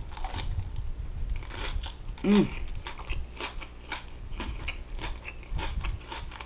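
Close-miked mouth sounds of biting and chewing barbecue chicken: many small wet clicks and crunches, with a short hummed "mm" about two seconds in.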